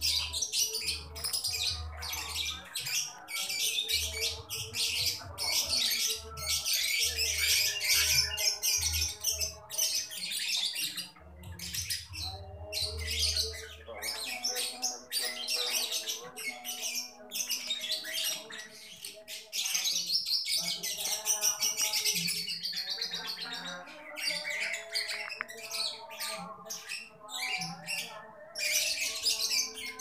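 Many small birds chirping and twittering continuously in rapid, overlapping calls, with occasional lower squawking calls mixed in.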